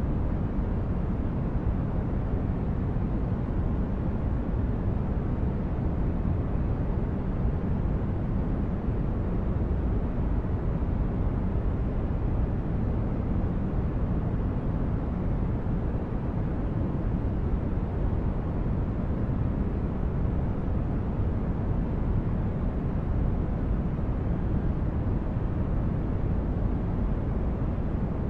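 Steady sleep-aid noise track: an even, deep rumbling hiss, heaviest in the bass and dull in the treble, that never changes.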